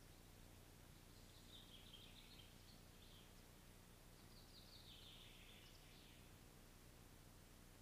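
Faint songbird song: two descending trilled phrases, the first starting about a second in and the second about four seconds in, over a steady faint hum.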